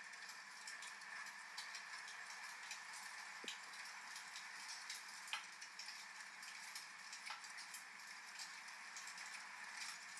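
Steady rain hiss with a wood fire crackling through it: irregular small pops several times a second, with a few sharper snaps standing out.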